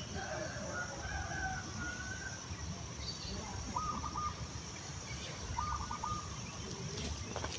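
Domestic chickens: a rooster's crow trailing off in the first couple of seconds, then two short bursts of rapid repeated clucking calls, over a steady high-pitched hum.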